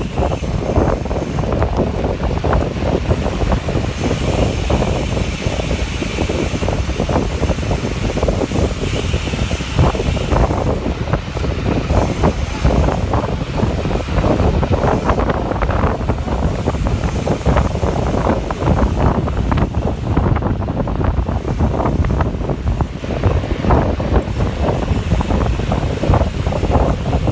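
Wind buffeting the microphone: steady, loud wind noise, heaviest in the low end, without a break.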